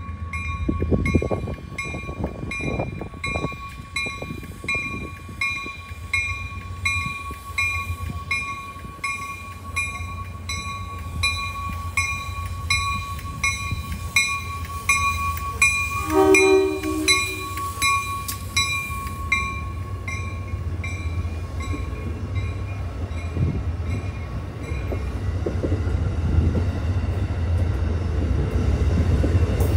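Amtrak Downeaster passenger train arriving: a bell strikes steadily for most of the time, the horn gives one short blast about 16 seconds in, and the low rumble of the locomotive and wheels grows as the train rolls past near the end.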